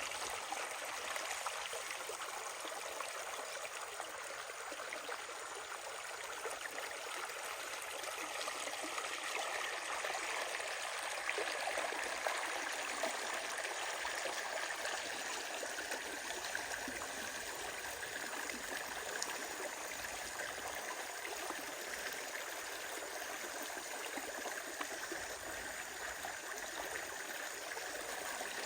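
Steady running water, an even unbroken rush with no sudden events.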